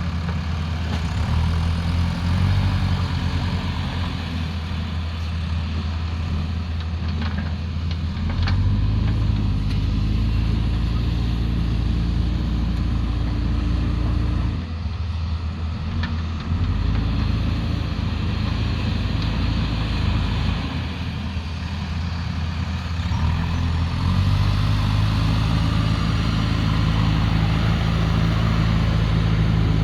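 Diesel engine of heavy earthmoving machinery working, its note stepping up under load and easing off again several times: it rises about 8 seconds in, dips about 15 seconds in, rises again after 16 seconds, and rises once more about 24 seconds in.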